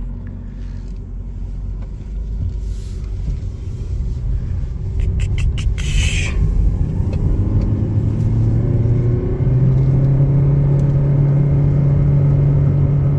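Toyota Prius hybrid's gasoline engine under hard acceleration: a drone that grows louder and rises in pitch, then holds at one steady pitch for the last few seconds instead of shifting, which sounds like it doesn't want to kick up gears (the Prius has a continuously variable transmission).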